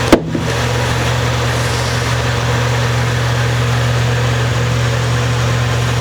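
A steady low machine hum with an even hiss over it, like a fan or similar running appliance, with one short knock right at the start.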